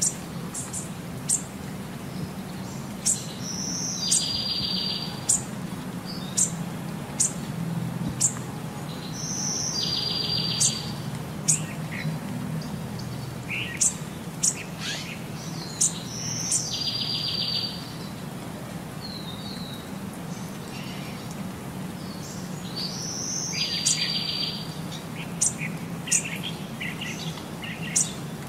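High bird chirps repeat about once a second, and a longer buzzy, pulsing call comes back every six or seven seconds, over a low steady hum.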